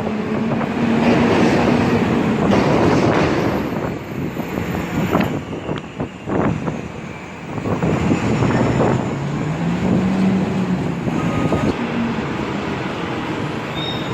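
TTC city bus running with its loud engine cooling fan, a steady rushing noise over a droning engine tone. The tone sinks about two seconds in and climbs again around eight to ten seconds in as the engine revs.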